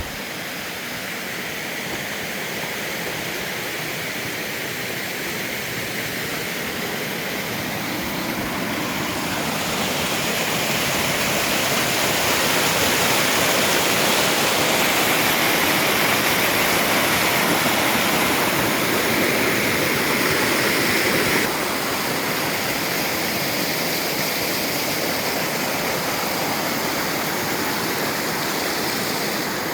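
Waterfall rushing steadily. It grows louder over the first ten seconds or so, then drops slightly and abruptly about two-thirds of the way through.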